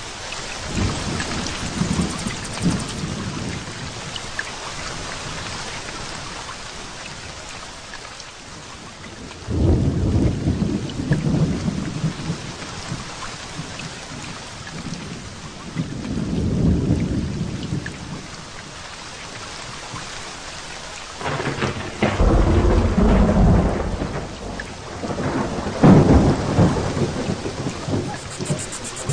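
Heavy rain falling steadily during a thunderstorm, with several rolls of thunder. One breaks suddenly about ten seconds in and another swells around seventeen seconds. A sharp crack at about twenty-one seconds runs into a long low rumble, and a last roll comes near the end.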